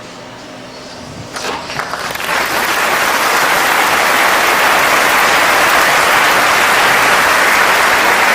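Crowd applause swelling in about two seconds in, then holding loud and steady, after a few faint knocks.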